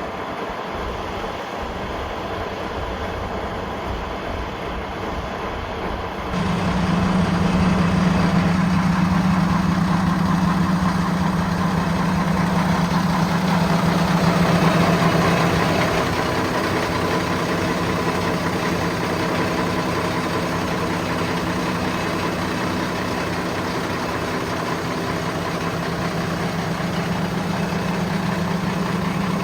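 Old 1972 O&K V12 diesel engine running. About six seconds in it suddenly gets louder, with a strong steady hum, then eases a little after about sixteen seconds and stays steady.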